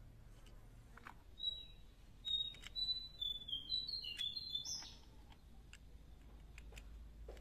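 A small bird singing a quick run of short, high chirping notes that step up and down in pitch, from about one and a half to five seconds in. A few faint light clicks sound alongside, from the rotary pellet magazine being handled.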